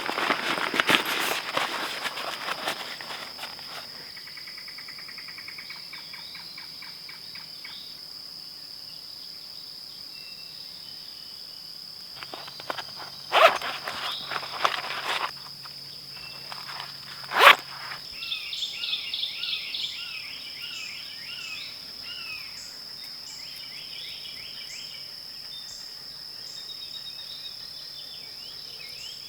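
Woodland ambience with a steady, high insect drone. Footsteps rustle through brush in the first few seconds, and a few sharp crunching snaps come about halfway. In the later part a bird sings runs of short, repeated chirps.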